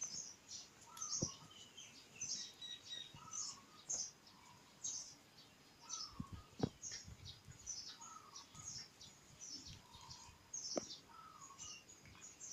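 Small birds chirping over and over, with short repeated call phrases, and a few sharp knocks from two dogs play-fighting on a tile floor.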